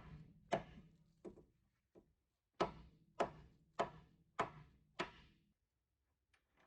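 A series of sharp knocks: three strikes, a pause of about a second, then five more at a steady pace of nearly two a second. Each rings briefly after the hit.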